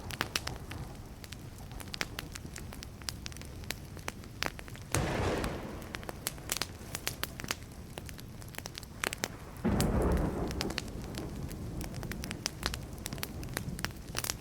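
Burning wood fire crackling, with many sharp pops and snaps throughout. Two short, loud low rumbles of thunder break in, about five seconds in and again about ten seconds in.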